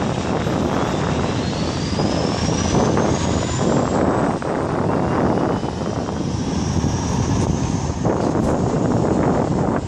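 Airbus A330-343's Rolls-Royce Trent 700 turbofan whining and rising steadily in pitch over several seconds as it spools up, under heavy wind buffeting on the microphone.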